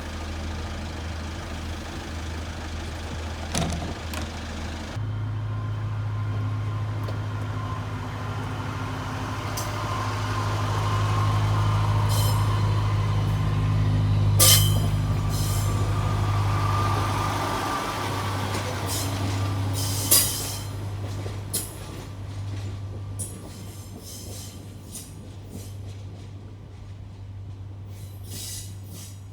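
Diesel train engine running steadily, then stepping up in pitch about five seconds in as the train pulls away from the platform. A few sharp knocks come through, and the engine slowly fades toward the end.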